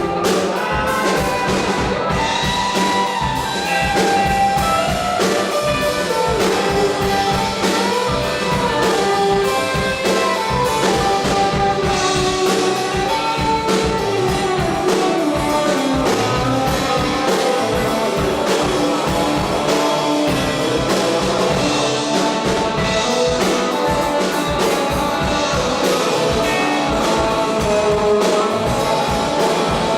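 Live rock band playing an instrumental jam: a lead instrument winds a melody over a steady beat on drum kit, with guitar.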